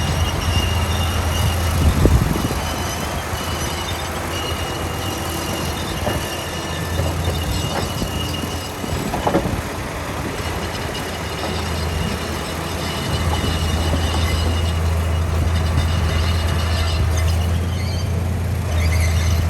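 Heavy diesel earthmoving machinery running steadily under load, with a faint high squeal and a couple of clanks, about two and nine seconds in.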